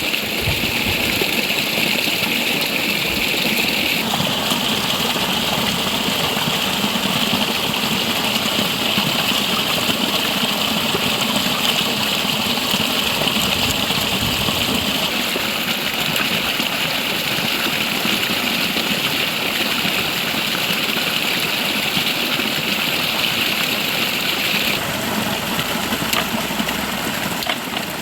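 River water rushing steadily, a continuous loud flow that changes in character slightly a few times.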